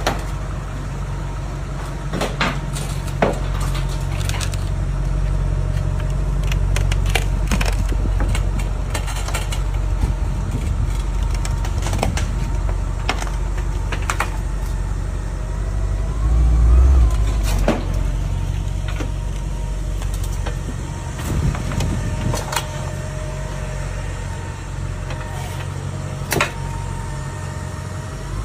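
Mercedes-AMG GT 63 S E-Performance's twin-turbo V8 running low and steady as the car rolls slowly down a transporter's metal loading ramp, with scattered clicks and knocks and a brief louder surge about 17 seconds in.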